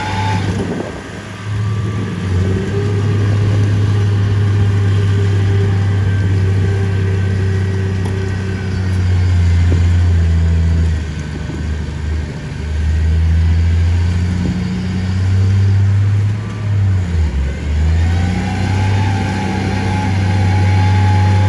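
Heavy diesel engine of earth-moving machinery running under varying load, with a deep drone that dips and picks up again several times. A fainter higher whine comes and goes over it.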